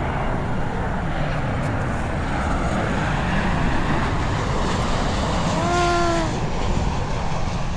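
Passenger airliner passing low overhead on its approach, its engines making a steady loud rumble. A short pitched call rises and falls about six seconds in.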